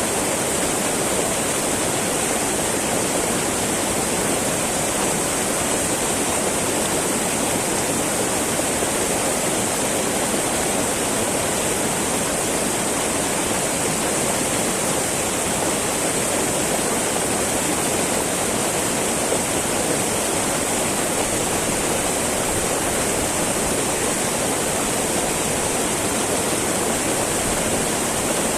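Small mountain river babbling and rushing over rocks, a steady, even flow of water.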